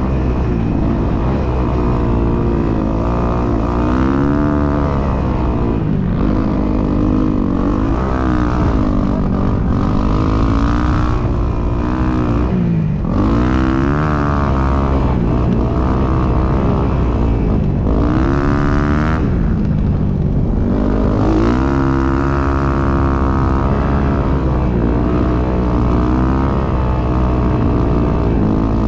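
Dirt bike engine riding under load, revs climbing and dropping again and again, with sharp rises around 4, 10, 14, 18 and 21 seconds in and brief let-offs between.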